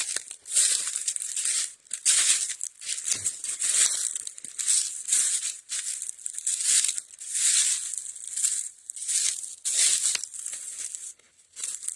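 Footsteps crunching through dry fallen leaves on a woodland trail, one step after another at an easy walking pace.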